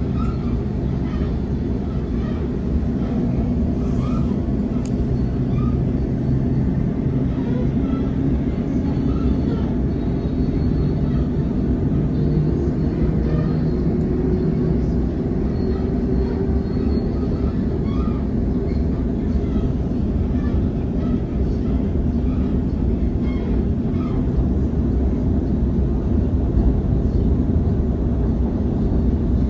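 Suburban electric train running between stations, heard from inside the carriage: a steady low rumble of wheels on track, with a faint hum that shifts in pitch midway.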